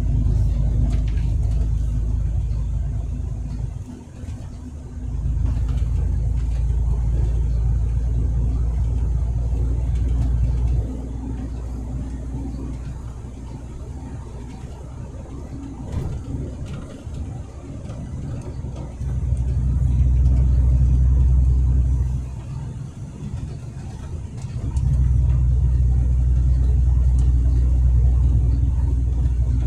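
Low rumble of a truck on the road, swelling for several seconds at a time and easing off in between.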